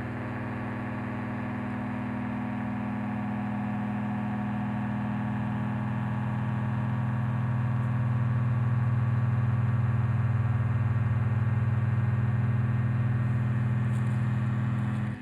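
A steady low drone with many overtones, slowly growing louder, that cuts off suddenly near the end.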